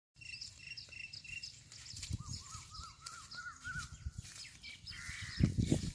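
Birds calling: a quick series of short, high chirps in the first second and a half, then a run of repeated arching notes about two seconds in. Low thuds sound throughout, loudest in a cluster near the end.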